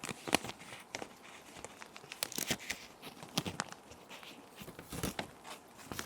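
Plastic sheet protectors crinkling and rustling as paper sheets are slid into them and handled, in irregular clusters of crackles, over a faint, steady rain background.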